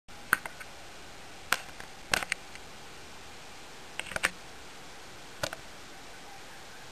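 Irregular sharp clicks and taps, some in quick groups of two or three, over a steady faint hiss.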